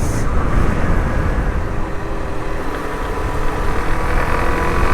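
Suzuki DR-Z400SM's single-cylinder four-stroke engine running under way, heard over heavy wind and road rumble, its note rising slightly about three seconds in.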